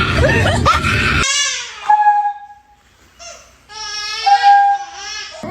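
Two long crying wails, each holding a steady pitch, the first starting about a second in and the second near the middle, after a loud stretch of background music at the start.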